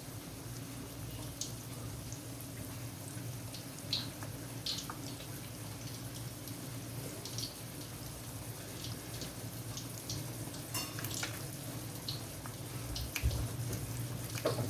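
Kitchen cooking sounds: a steady low hum under a soft haze, with scattered small pops and clicks, and a few louder knocks near the end.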